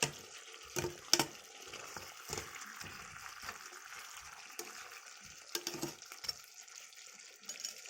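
Chicken sizzling in a pan of honey and tomato sauce while a utensil stirs it, knocking and scraping against the pan several times, loudest about a second in.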